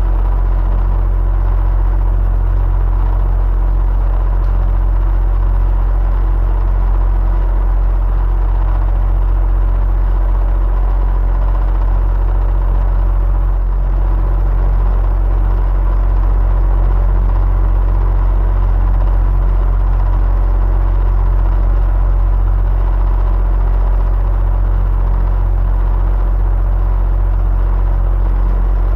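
Electric fan running steadily: an even, deep drone with a faint steady hum in it.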